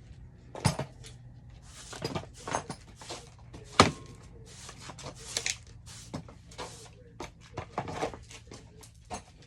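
Irregular knocks, clunks and brief rustling as household things are handled, the sharpest knock about four seconds in, over a faint low hum.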